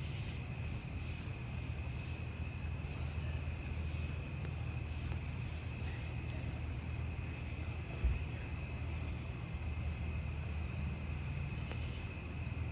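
Crickets trilling steadily in two high, unbroken tones over the low sound of a burning wood campfire, with faint scattered crackles. A brief low thump comes about eight seconds in.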